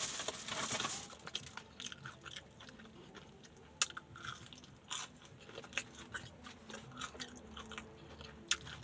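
Close-up chewing and biting of crispy fried food, with irregular crunches and wet mouth clicks; a louder crackly burst comes in the first second.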